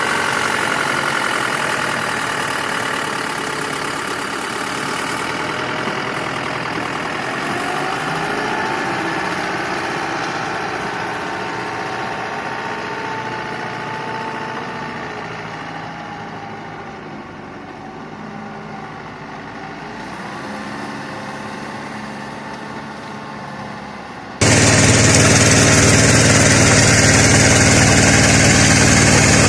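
Tractor engine running steadily, fading a little over the first twenty seconds. About 24 seconds in it cuts abruptly to a louder engine running.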